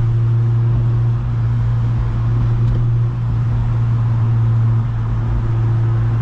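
8th-gen Honda Civic Si's K20 four-cylinder engine and exhaust droning steadily at highway cruise, heard inside the cabin over road noise.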